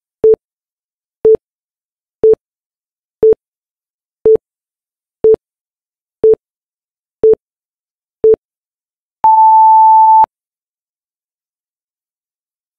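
Tabata interval timer's electronic countdown beeps: nine short, identical beeps once a second, then one longer, higher beep marking the start of the 20-second work interval.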